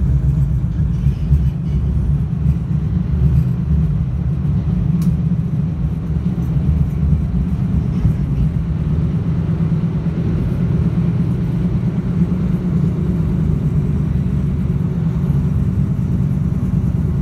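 Commuter train running at speed, heard from inside the passenger coach: a steady, even low rumble.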